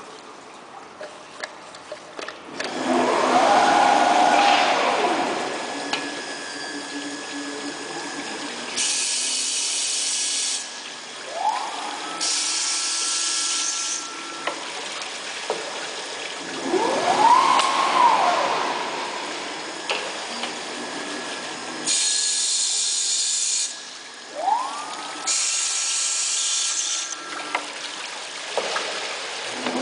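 Horizontal CNC glass drilling machine working through its drilling cycles. A spindle motor whines up in pitch, holds and winds down, repeating about every seven seconds, over a running-water noise and short bursts of hissing.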